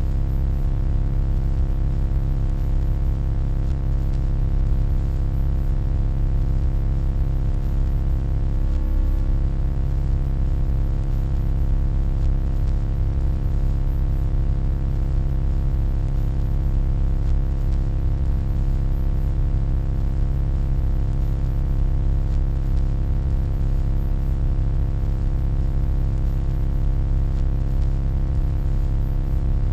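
Steady electronic hum: a deep drone with a stack of steady higher tones above it, unchanging in level, with a faint brief warble about nine seconds in.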